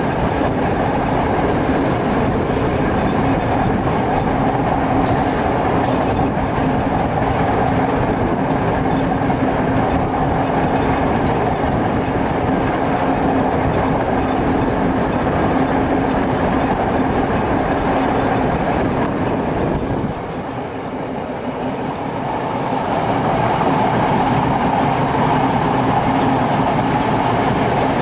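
Passenger train running at speed, a steady rumble of wheels on the rails with a low hum, heard from beside the carriage's open window. The noise drops briefly about twenty seconds in, then comes back to full level.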